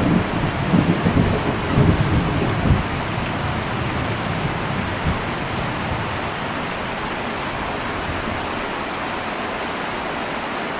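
Heavy rain falling on an old metal roof, with a low thunder rumble that dies away about three seconds in, leaving a steady rain hiss.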